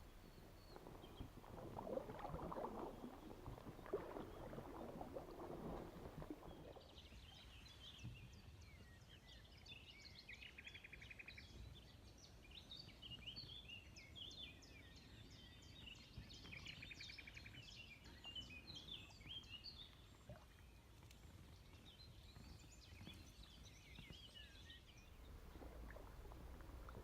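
Soft water splashing and sloshing, then several birds singing quietly, with many short chirps and whistles and a rapid trill twice.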